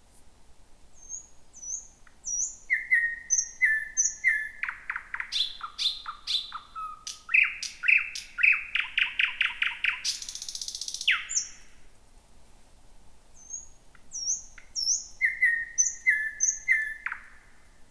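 Thrush nightingale singing two song phrases. The first opens with paired high and low whistled notes, runs into a fast series of clicks and then a rapid rattle, and ends in a dense buzz and a falling note. After a pause of about two seconds, a second phrase of paired whistled notes follows near the end.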